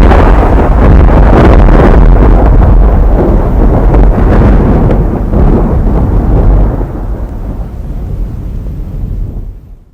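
Model train running on its track close to the microphone: a loud, distorted rumble that fades over the last few seconds and then cuts off.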